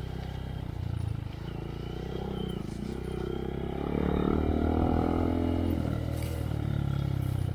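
2023 Honda Monkey's air-cooled single-cylinder engine running through a Yoshimura RS3 exhaust while riding. The revs pick up and it gets louder about halfway through, then it eases off near the end.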